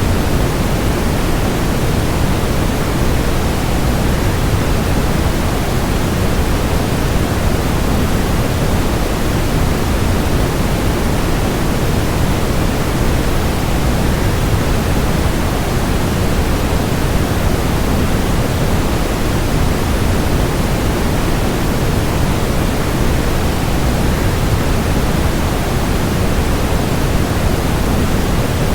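Waterfall rushing: a steady, unbroken roar of falling water, heaviest in the low end and never changing.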